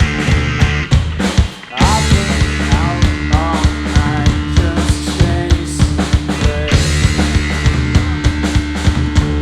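Live rock trio of electric guitar, bass guitar and drum kit playing a song loud. The band stops briefly about 1.5 s in, then comes back in, with bending guitar notes over steady drum hits.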